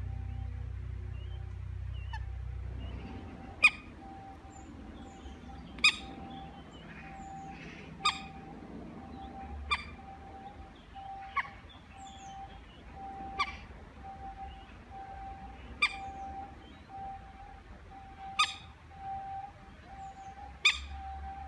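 A bird calling: one short, sharp call repeated about every two seconds, with a faint low rumble that dies away in the first few seconds.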